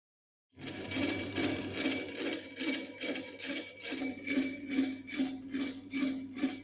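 Restored antique manual key cutting machine with its mechanism turning, making a steady rhythm of about two to three strokes a second over a low hum. It starts suddenly about half a second in.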